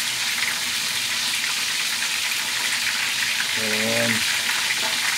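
Breaded chicken drumsticks frying in shallow oil in a pan, a steady sizzling hiss. There is a brief voiced hum about three and a half seconds in.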